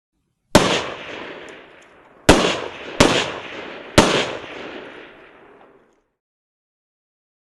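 Four single gunshots, the last three coming closer together, each followed by a long echoing tail that fades away.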